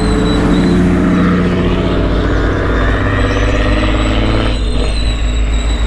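A car engine running hard at a fairly steady pitch. About four and a half seconds in it drops off sharply, as when the throttle is lifted.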